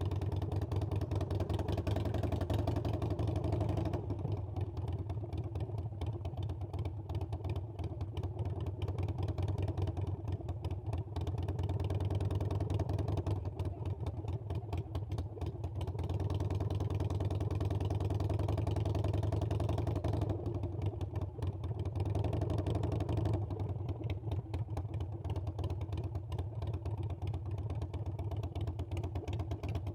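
Harley-Davidson Iron 883's air-cooled V-twin engine running while being ridden. Its note grows louder and eases off several times as the throttle is opened and closed.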